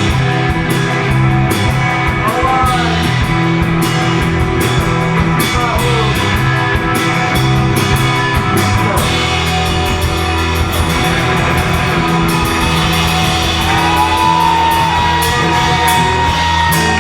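Indie/alt rock band playing live: two electric guitars, bass guitar and drum kit in a loud, full song, with steady drum hits under sustained guitar chords. Near the end a guitar note bends and is held.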